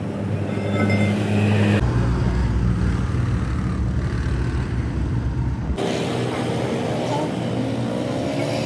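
Restored stone crusher running, a steady low mechanical hum. The sound changes abruptly twice, about two and six seconds in.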